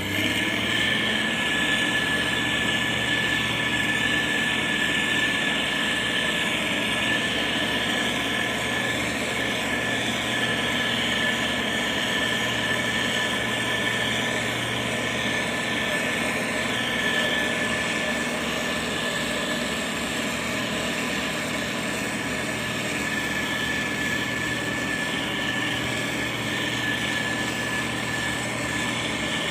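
Motor grader's diesel engine running steadily, with a thin, steady high whine over the engine noise.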